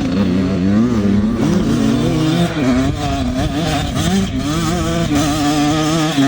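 Racing motorcycle engines revving, their pitch rising and falling again and again as the bikes accelerate and back off.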